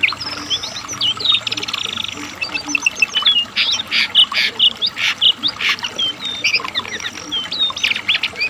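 Lesser shortwing (cingcoang coklat) singing a fast, jumbled song of short high chirps and slurred whistled notes, with a few harsher buzzy notes mixed in.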